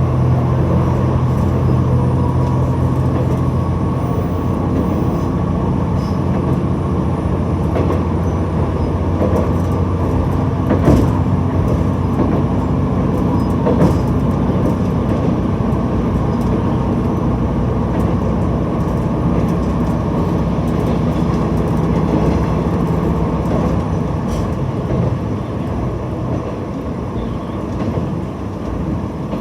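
Diesel railcar running along the line: a steady engine drone over wheel-and-rail rumble. The engine note changes about four seconds in and again near the end, and a couple of sharp knocks come from the wheels over the track partway through.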